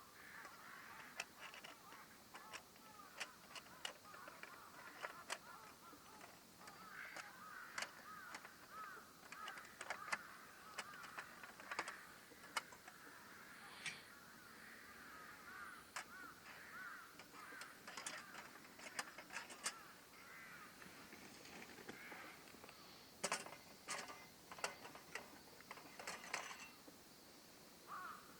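Crows cawing over and over, faint, with scattered sharp clicks throughout.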